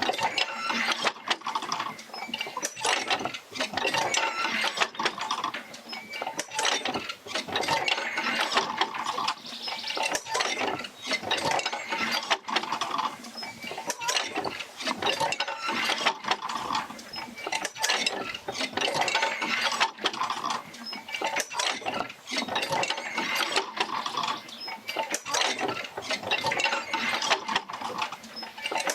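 Oil-field field wheel rocking back and forth, driven by a Fitzgerald rig and pulling jerker lines: continual mechanical clanking and clicking that swells and eases in a slow repeating cycle.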